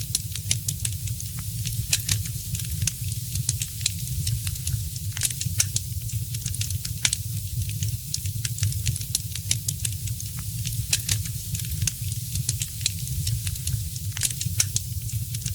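Wood fire crackling in a fireplace: frequent sharp pops and snaps at irregular intervals over a steady hiss and a low rumble.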